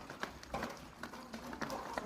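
Chickens and ducks in a flock: irregular short taps and clicks with brief calls mixed in.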